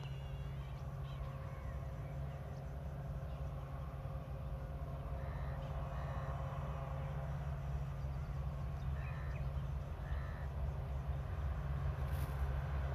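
Low, steady rumble of a diesel-hauled train approaching but still out of sight, growing slowly louder toward the end. Birds call a few times over it, with crow caws among them.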